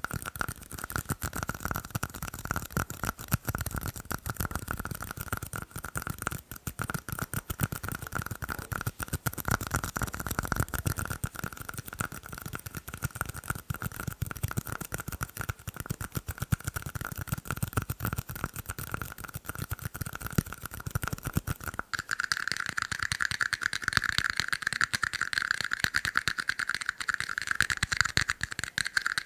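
Fast tapping on plastic cups: a dense stream of quick clicks with a light hollow ring. About two-thirds of the way through it switches abruptly to a louder, brighter-ringing cup.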